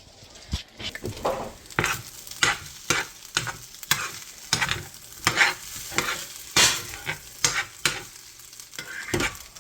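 Fried rice sizzling in a frying pan while it is stirred, a utensil scraping and knocking against the pan in irregular strokes, about one or two a second.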